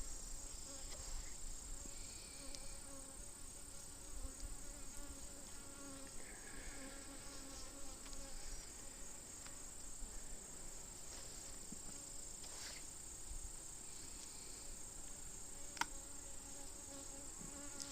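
Honeybee colony buzzing around an open hive: a steady hum, with a couple of faint clicks near the end. The beekeeper takes the noise for the bees getting aggravated by the inspection.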